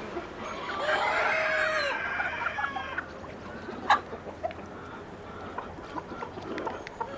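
Chickens clucking, with a rooster crowing once for about two seconds near the start. A sharp click comes about four seconds in.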